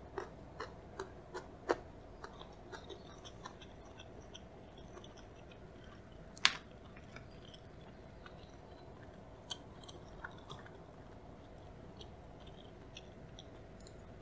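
Close-up chewing of salmon maki, with crisp little crunches from the cucumber in the roll. A quick run of crunches comes in the first few seconds, one sharper, louder click about six and a half seconds in, and a few softer crunches later on.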